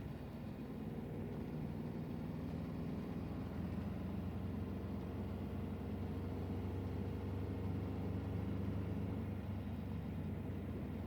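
Engine running at a steady speed: an even, low drone with no breaks.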